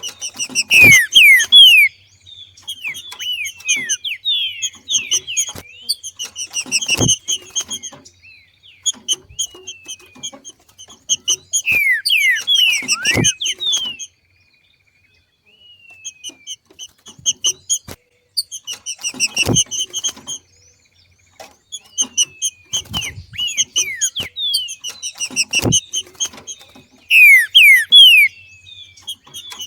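Green-winged saltator (trinca-ferro) giving its 'macheado' call: rapid bursts of quick down-slurred notes that come in clusters, with a brief pause around the middle. Sharp knocks cut in about every six seconds.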